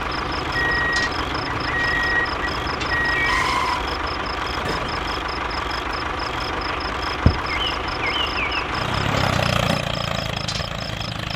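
Small motor of a miniature model vehicle running steadily, with a high, evenly repeating pulse over it and one sharp click about seven seconds in.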